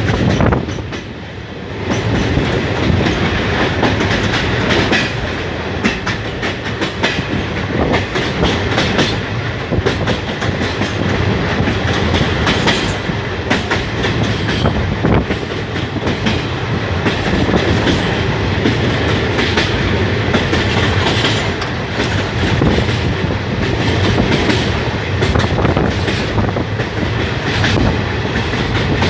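Train running across a long bridge, heard from aboard: a steady loud rumble of wheels on rail, with a dense, rapid clatter of wheels over rail joints. The noise dips briefly about a second in.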